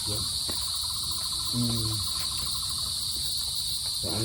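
Steady, high-pitched chorus of forest insects, with a second, lower pulsing trill for about the first two seconds. A brief voice sound about one and a half seconds in.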